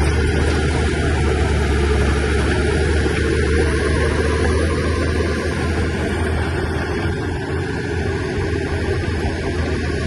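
Shantui bulldozer's diesel engine running steadily, a deep low drone with no breaks.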